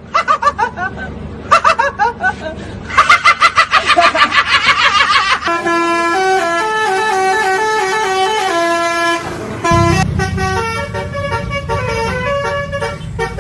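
Bus telolet horn (a Basuri multi-tone musical air horn) sounding. First come quick bursts of sliding, pulsing toots, then from about five seconds in a tune of held notes stepping from pitch to pitch. A low rumble joins about ten seconds in.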